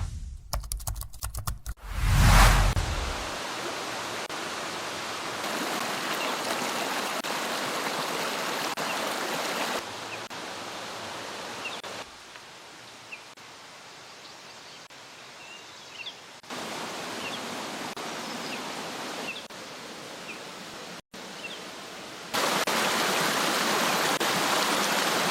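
Valley stream rushing steadily over rocks, its level jumping up and down at several abrupt cuts. Faint bird chirps come through in the middle, and the opening seconds hold a few clicks and a low thump.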